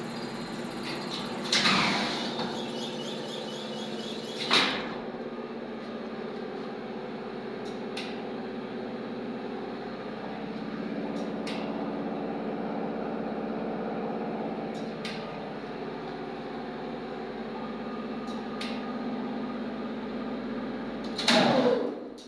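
Elevator electric drive motor running with a steady hum made of several held tones. There are loud clunks about 1.5 and 4.5 seconds in, faint sharp clicks every few seconds, and a loud clunk with a falling sweep near the end.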